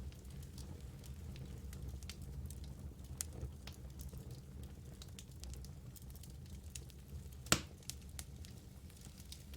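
Wood logs burning in a fireplace: a steady low rumble of flame with scattered small crackles, and one loud sharp pop late on.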